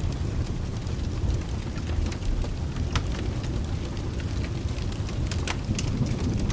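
Fireplace crackling with sharp, irregular pops, over a steady low rumble of rain and distant thunder.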